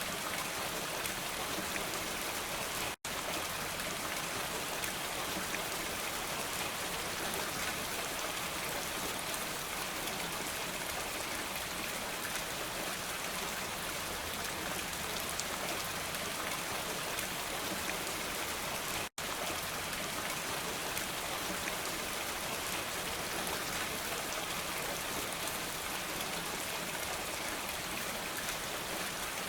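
Steady rain falling, a dense even hiss with no thunder. It cuts out completely for an instant twice, about 3 and 19 seconds in.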